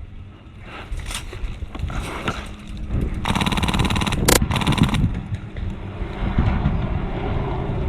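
Airsoft gun firing one rapid full-auto burst of about two seconds, starting about three seconds in, over outdoor rustle and wind rumble.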